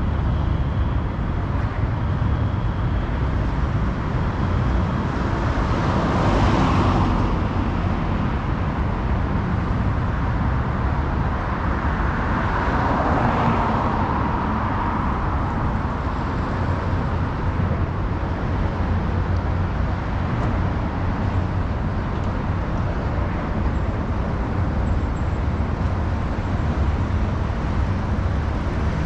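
City road traffic with a steady low rumble throughout. Two vehicles pass, swelling louder about six seconds in and again about thirteen seconds in.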